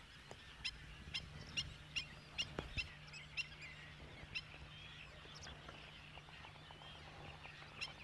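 Birds chirping faintly, short high calls coming one or two a second, over a low steady hum.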